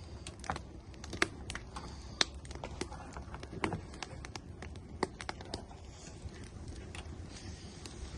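Wood fire burning in an outdoor grill, crackling with irregular sharp pops and snaps over a low steady rumble.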